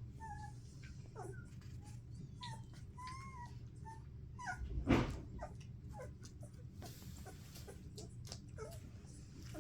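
Collie puppies squeaking and whimpering in short, high calls while their mother licks them, with soft clicking throughout and one louder short noise about halfway through.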